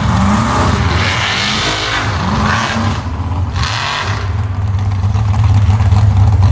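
Mega mud truck's engine revving hard, its pitch rising and falling several times over a steady low drone, with three short bursts of hiss.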